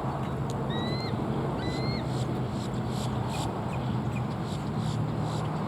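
Bald eagle giving two short, high piping calls about a second apart, over a steady low hum of a vehicle engine.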